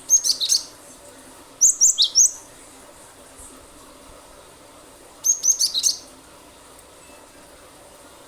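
Cinereous tit (gelatik batu) singing in three short bursts of sharp, high, rapid notes, four or five notes to a burst: one at the start, one about a second and a half later, and one after a longer pause.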